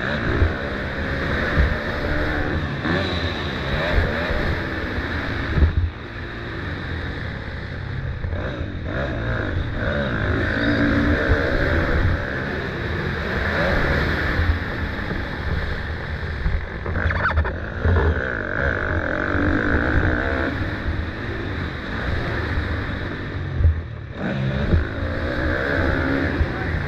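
Motocross motorcycle engine racing, its pitch repeatedly rising and falling as the throttle opens and closes, with brief drops in level when it backs off.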